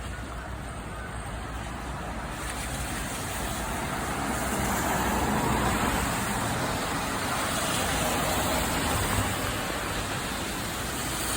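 Rain falling in a steady hiss that swells louder from about two seconds in.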